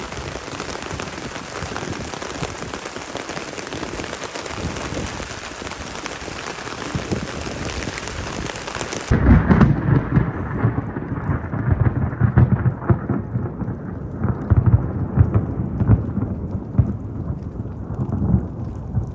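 Thunderstorm: heavy rain hissing steadily. About nine seconds in the sound changes abruptly to a duller one, with deep, uneven thunder rumbling over the rain.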